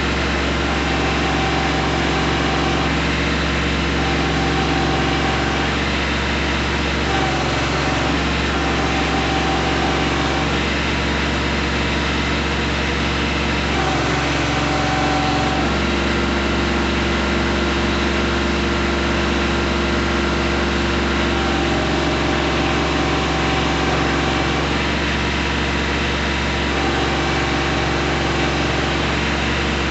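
Kubota B2320 compact tractor's three-cylinder diesel running steadily, with a higher whine that comes and goes several times.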